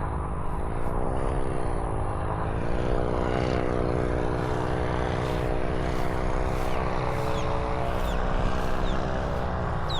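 Powered paraglider trike's engine and propeller running on final approach. The pitch dips slightly twice in the first few seconds, then holds steady.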